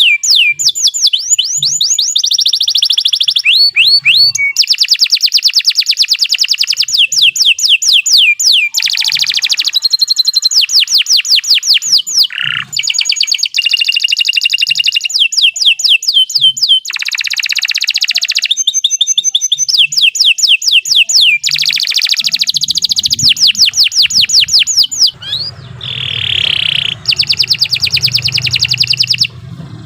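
Domestic canary singing a long, unbroken song of fast trills, each phrase a rapid run of repeated high notes before switching to a new one. A low hum comes in under the song near the end.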